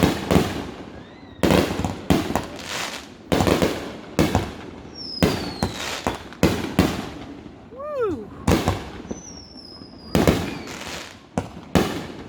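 Fireworks going off: a rapid string of sharp bangs, a dozen or so, some ringing out briefly, with a few whistles gliding in pitch in between.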